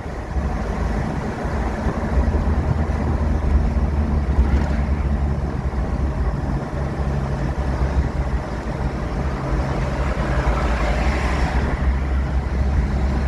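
Jeep TJ engine running steadily at a low, even speed.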